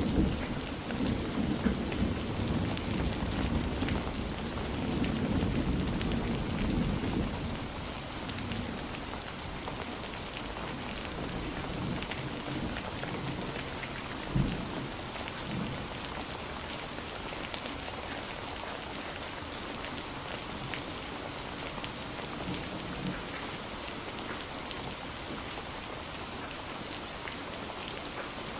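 Steady rain falling, with the low rumble of thunder dying away over the first several seconds. A short low thump sounds about halfway through.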